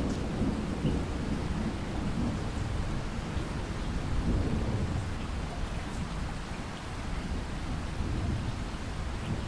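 Steady rain with a low rolling rumble of distant thunder underneath and scattered drops ticking.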